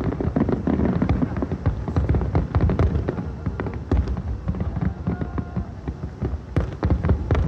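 Fireworks display: aerial shells bursting in a rapid, irregular string of sharp bangs and crackles over a continuous low rumble.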